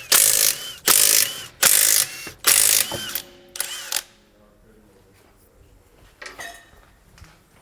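Impact wrench running in a series of short, loud bursts, about five or six in the first four seconds, each ending in a brief whine, as it undoes the wheel nuts of a Tesla Model 3.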